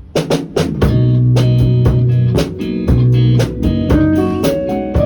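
A small live band playing a song: a drum kit keeping a steady beat under held bass notes and guitar chords, all coming in together right at the start.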